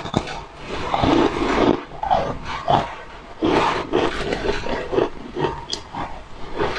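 Close-miked eating sounds: biting into and chewing a large white porous disc of food, with irregular crunches and wet mouth clicks.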